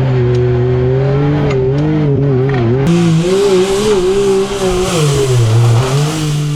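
Yamaha YXZ1000R side-by-side's three-cylinder engine running under way, its revs rising and falling with short dips. About three seconds in, a loud hiss joins the engine.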